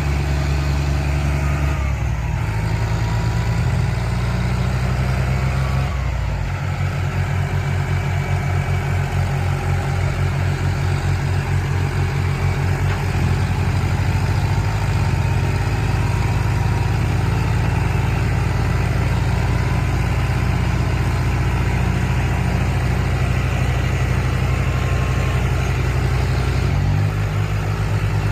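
Tractor diesel engine running, its speed shifting up or down in steps a few times.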